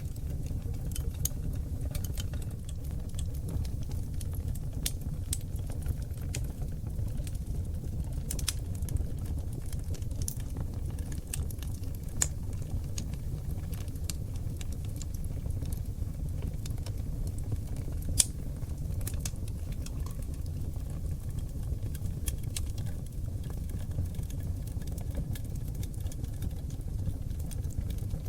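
Oak log fire burning in a fireplace: a steady low rumble of flames with frequent sharp crackles and pops, the loudest pops about twelve and eighteen seconds in.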